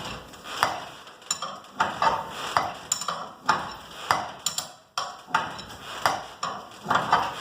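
Steel winding bars clanking in the winding cone and against a strut as a garage door torsion spring under heavy tension is unwound: a string of sharp metallic clanks with a short ring, roughly two a second.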